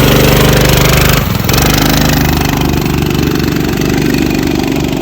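Predator 212cc single-cylinder four-stroke engine on a mini bike running on its first start. It dips briefly about a second in, then runs on steadily at a slightly lower level.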